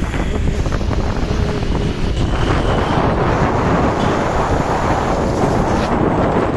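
Wind buffeting the microphone during a bike ride, over the running noise of the ride and road traffic; the wind rush grows stronger about halfway through.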